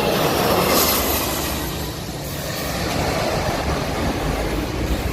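Boeing KC-135R Stratotanker's four CFM56 turbofan engines: steady jet noise as the tanker comes in to land, easing a little about two seconds in and building again.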